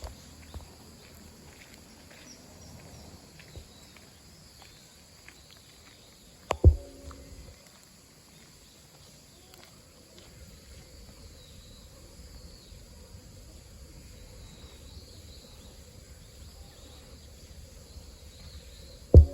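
Outdoor park ambience with faint, thin high chirps, broken by two sharp loud knocks, one about six and a half seconds in and one at the end, each with a brief low thud.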